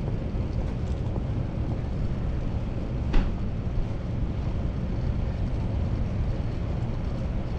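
Steady wind and road rumble picked up by a chest-mounted GoPro on a moving bicycle, with a single short sharp click about three seconds in.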